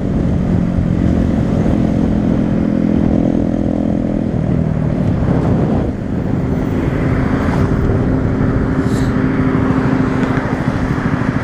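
Honda Grom's 125 cc single-cylinder engine running steadily while riding, with a brief dip in the engine note about six seconds in. Wind noise grows over the second half.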